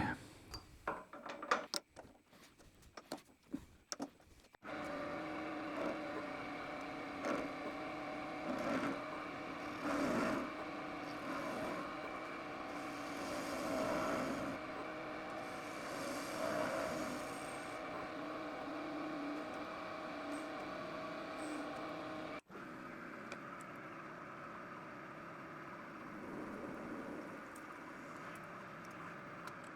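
A few metal clinks and clicks, then a metal lathe running steadily while machining the steel puller, with a steady hum and some swells in the cutting noise. It stops abruptly about two-thirds of the way through and picks up again a little quieter.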